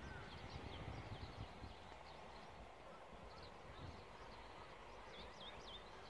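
Wild small birds chirping faintly: scattered short, high, quick notes, with a cluster of chirps near the end. A low rumble sits underneath, loudest in the first second and a half.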